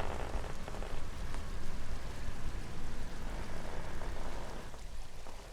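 Steady splashing noise of open water around a drifting boat, a sea sound effect that fades away near the end.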